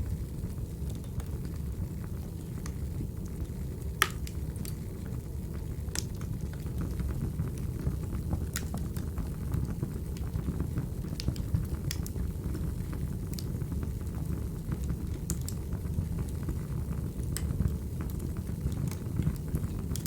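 Wood fire crackling: a steady low rush broken by sharp, irregular pops, the loudest about four seconds in.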